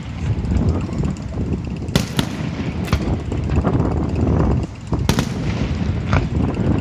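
Fireworks display: sharp bangs of bursting shells about two seconds in, again near three, five and six seconds, over a continuous low rumble of booms and crackle.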